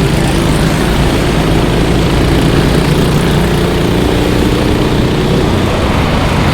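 Racing kart engines running on the track, a steady engine drone with wavering pitch over a thick rushing noise.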